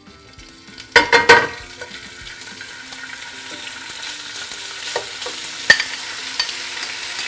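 Diced raw chicken going into hot oil in a nonstick skillet: a loud burst of sizzling about a second in, then steady frying that slowly grows louder as more pieces go in. A few light clicks of the tongs and bowl against the pan.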